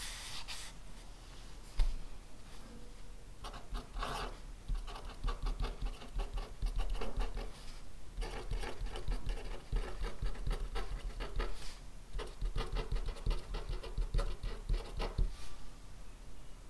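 Handwriting on paper: runs of quick scratchy pen strokes with short pauses between them. There is a single knock about two seconds in.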